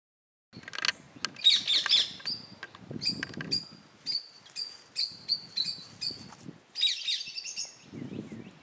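Birds chirping and calling, many short high chirps and trills with the busiest bursts in the first two seconds and again near the end.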